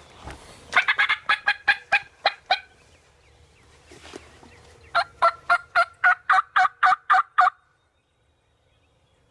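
Wild turkey gobbler gobbling twice, loud and close: two rapid, rattling runs of about two seconds each, the second starting about two seconds after the first ends.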